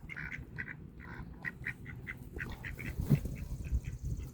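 Ducks quacking in a rapid run of short, repeated calls, several a second, coming faster in the middle, over a low steady rumble.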